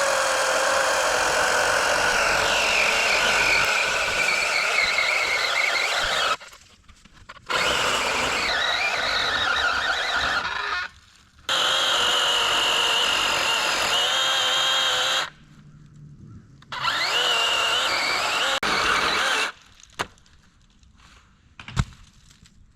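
Electric chainsaw cutting into a tree trunk in four runs of a few seconds each, with short pauses between them; its motor whine shifts and dips in pitch as it loads up in the wood. Two sharp knocks come near the end.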